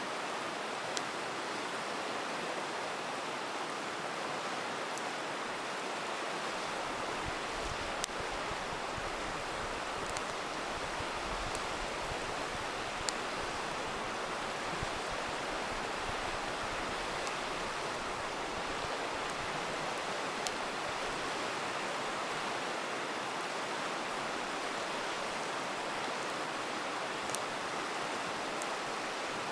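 A river rushing steadily, with a campfire crackling over it in scattered sharp pops every few seconds.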